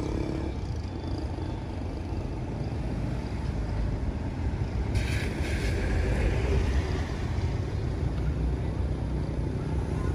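Approaching diesel train: a low rumble that slowly grows louder, with a brief higher-pitched sound about five seconds in.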